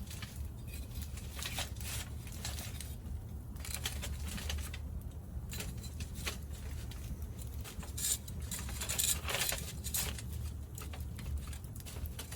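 Wood fire in a Picogrill fire pit crackling and popping irregularly over a low steady rumble, with the pops bunching up about two thirds of the way in.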